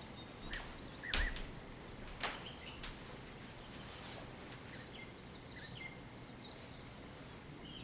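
Small birds chirping in short, scattered calls, with a couple of sharp clicks or knocks: the loudest about a second in, another just after two seconds.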